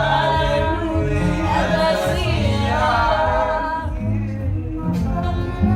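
Several voices singing together in harmony over a bass line.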